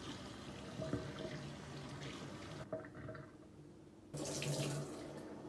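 Water running from a tap into a sink, easing off about three seconds in and coming back stronger about a second later.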